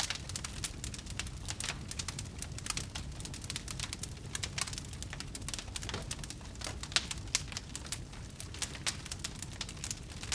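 Wood fire burning in a fireplace, with dense, irregular crackles and pops over a low steady rumble of the flames.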